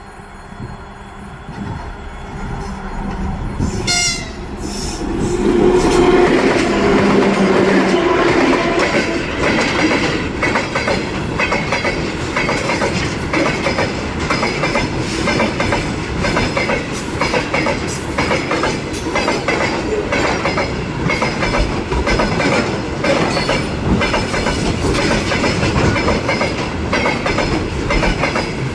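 2TE25KM two-section diesel locomotive pulling away and passing close by. Its horn sounds a two-tone blast for about three seconds, some five seconds in, as the engine noise builds. The engine then runs loud and steady under rhythmic clickety-clack from the wheels on rail joints.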